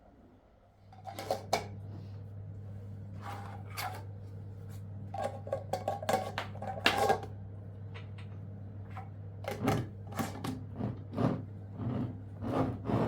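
Repeated clinks and knocks of objects being handled, like dishes and utensils, over a steady low hum that starts about a second in.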